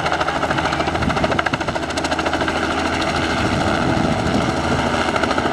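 Helicopter running close by, its rotor blades making a fast, steady chopping over the engine's drone.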